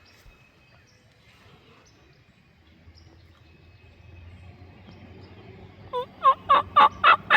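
Turkey yelping: a loud run of short, evenly spaced yelps, about three or four a second, starting about six seconds in after quiet woods.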